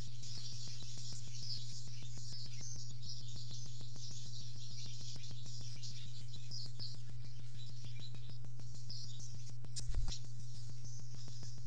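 High-pitched bird twittering and chirping runs over a steady low hum and a fast, even clicking. Just before ten seconds in there is a single soft thump, as a barn swallow lands on its mud-and-straw nest.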